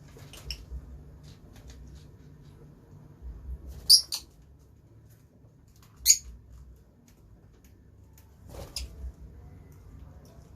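Lovebirds giving a few short, sharp, high-pitched chirps spaced seconds apart, the loudest about four and six seconds in.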